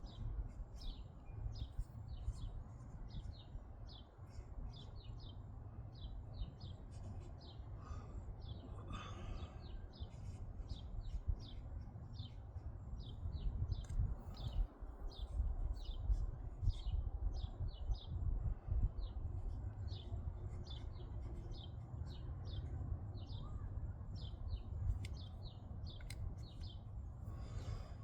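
Birds chirping outdoors: a steady run of short, high chirps, about two or three a second, over a low rumble.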